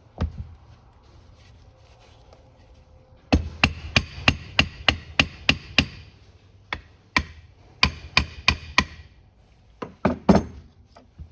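Hammer tapping on an aluminum carburetor to break a stuck part free. There is one knock, then a quick run of about ten sharp taps, a second group after a short pause, and a couple more near the end.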